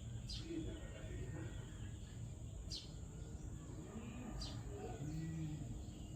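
Birds calling over a steady low background rumble: three short, high falling chirps and several low cooing notes.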